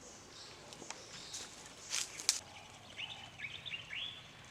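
A few sharp crackling rustles, the loudest about two seconds in, followed by a bird calling a quick run of five or six short, falling chirps.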